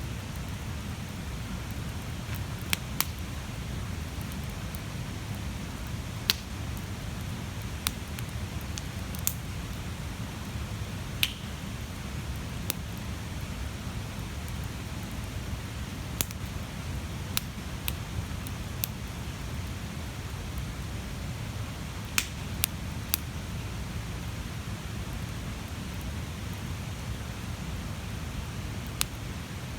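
Large wood bonfire burning: a steady low rumble of the flames with sharp, scattered crackles and pops from the burning wood, about fifteen of them at irregular intervals.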